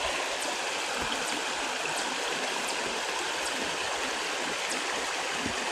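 Creek water running over rocks, a steady rushing burble.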